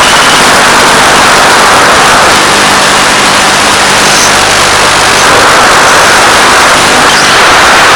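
Loud, steady rushing hiss with a faint low hum underneath, carried over the FPV plane's analog video link audio.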